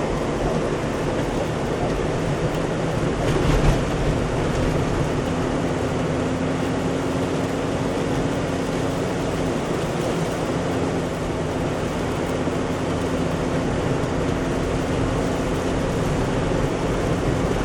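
Steady road noise inside a moving car: engine and tyres rolling over an icy, snow-covered road, with a low hum. A brief thump about three and a half seconds in.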